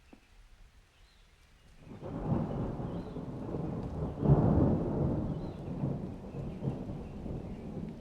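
A roll of thunder: the rumble starts about two seconds in, swells to its loudest a little past the middle, then rolls off slowly.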